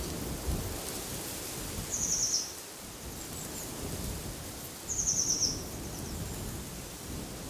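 A songbird gives two short, high, rapid trills, each falling slightly in pitch, about three seconds apart, over steady wind with low rumbling gusts.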